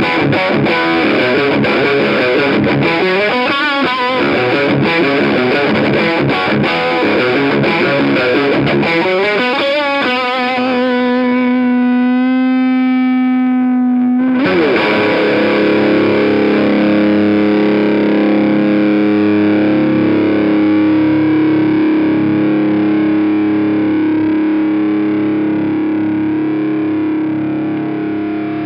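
Single-coil Fender Stratocaster with Lace Sensor pickups played through a Bogner Ecstasy Red overdrive pedal, giving a driven, distorted electric guitar tone. A busy riffing passage gives way about ten seconds in to a single held note with vibrato. About halfway through a chord is struck and left to ring out.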